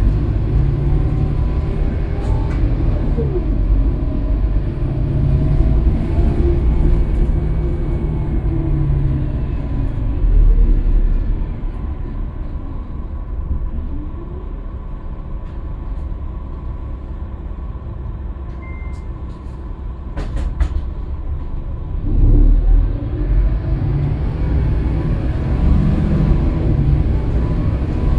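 Scania K320UB city bus's engine running with a deep rumble. It quietens to a low, steady running from about halfway through, then pulls up again near the end as the bus accelerates. There is a short beep and a few clicks between the quiet stretch and the pull-away.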